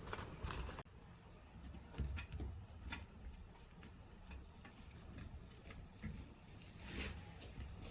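Faint rural ambience: a steady high-pitched insect trill, with a few scattered light knocks and a low rumble.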